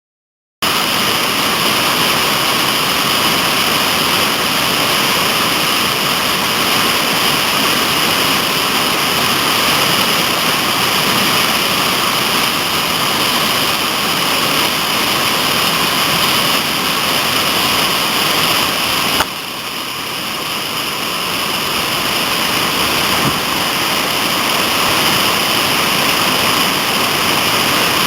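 Loud, steady rush of whitewater in a creek's rapids. It breaks off suddenly about two-thirds of the way through and comes back a little quieter, building up again.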